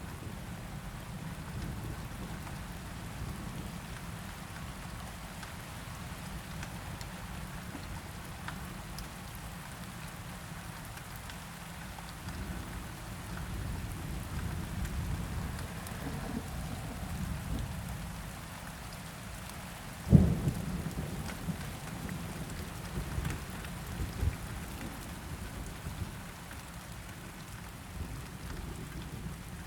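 Steady rain over a low, continuous rumble of thunder. About twenty seconds in comes a sudden loud thunderclap, followed by a couple of smaller peaks in the rumbling.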